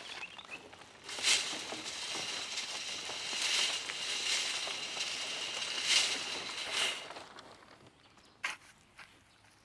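Wood chips being sifted: a continuous dry rustling and rattling for about six seconds, with a few sharper knocks, then it stops and one knock follows.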